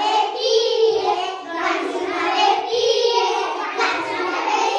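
Young schoolchildren singing a song together, their voices holding and gliding between sustained notes.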